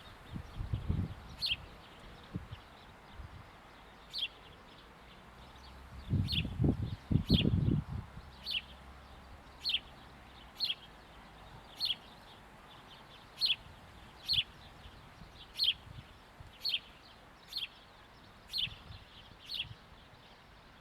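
A sparrow giving short single chirps over and over, about one a second. Gusts of wind rumble low near the start and loudest about six to eight seconds in.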